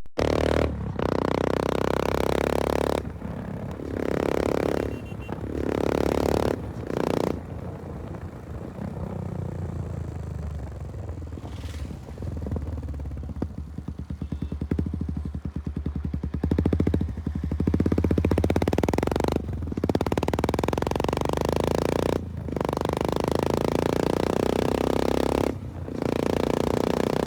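Royal Enfield Himalayan's 411 cc single-cylinder engine through a custom-built full exhaust system, heard while riding. The exhaust note swells and eases with the throttle and cuts out briefly several times.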